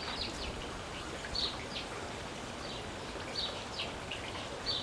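Small birds chirping, a string of short high chirps every half second or so, over a steady background hiss of outdoor ambience.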